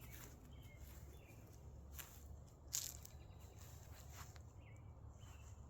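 Quiet outdoor ambience: faint short bird chirps now and then, with a few soft clicks or rustles, the sharpest nearly three seconds in.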